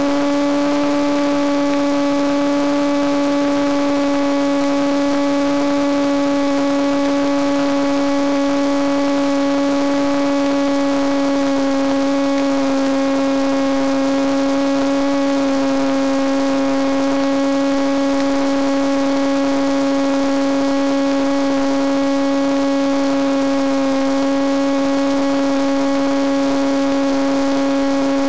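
Steady whine of a Penguin FPV plane's electric motor and propeller cruising at constant throttle, its pitch drifting only slightly, over a background hiss.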